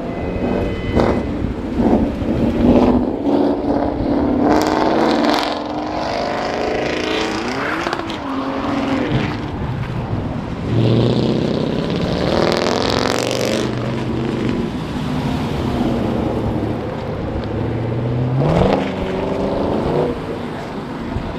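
Car engines revving and pulling away, their pitch climbing several times as they accelerate past, over steady traffic and crowd background noise.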